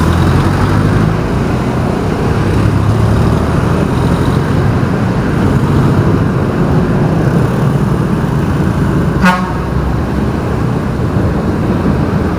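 Steady vehicle engine and traffic noise while driving on a city street, with one short horn beep about nine seconds in.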